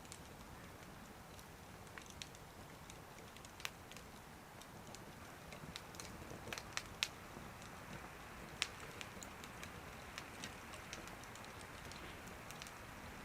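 Wood fire burning in a small wood stove, with irregular sharp crackles and pops over a steady hiss; the loudest pops come about seven seconds in and again just after.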